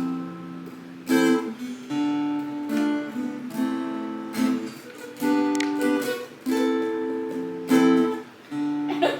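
Acoustic guitar played by hand, strumming chords that each ring out, with a new chord struck about every second.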